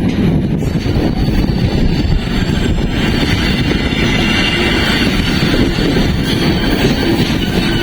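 Passenger train running along the track: a steady, loud rumble of the coaches' wheels on the rails, with a brighter hiss added about three seconds in.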